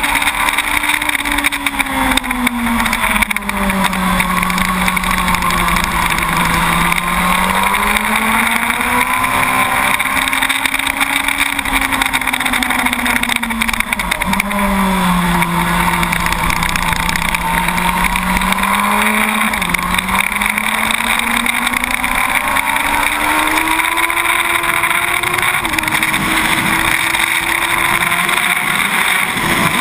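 A 2006 Yamaha YZF-R1 SP's inline-four engine at track speed, heard from the bike. The revs fall away going into corners and climb again on the way out, with sudden steps in pitch at gear changes about halfway through and near the end, over steady wind rush.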